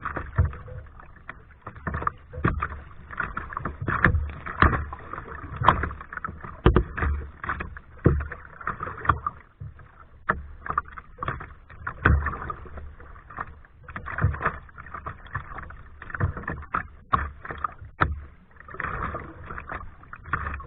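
Kayak paddling: paddle blades dipping and splashing in the water at an uneven pace, with water dripping and short sharp knocks throughout.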